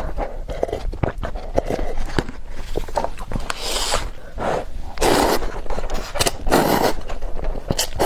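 Close-miked eating sounds: wet mouth clicks while chewing instant noodles, with several short slurps about halfway through and near the end.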